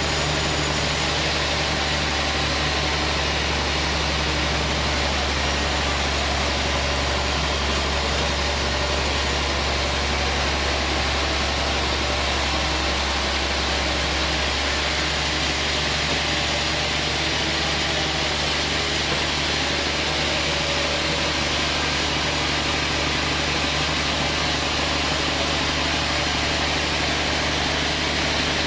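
Sawmill band saw machinery running steadily, a constant low motor hum under a hiss. The tone shifts slightly about halfway through.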